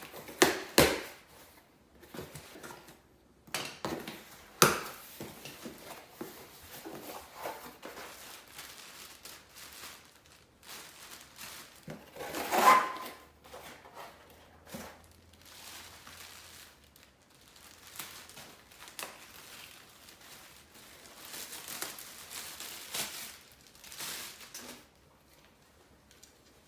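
Irregular knocks, clatters and rustling of objects being handled, with a few sharper knocks standing out.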